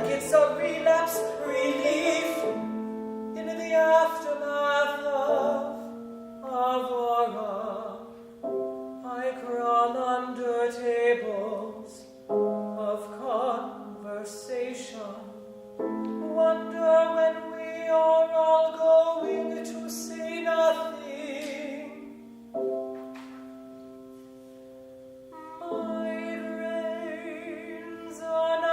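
Counter-tenor singing classical art song with vibrato over sustained piano chords, in several phrases with short breaks between them.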